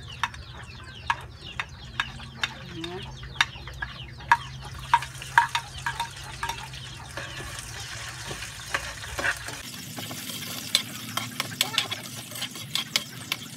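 Chopped garlic and onion frying in hot oil in a wok, sizzling, with a metal spoon clinking and scraping against the plate and the wok as they are scooped in and stirred. The sizzle grows about five seconds in.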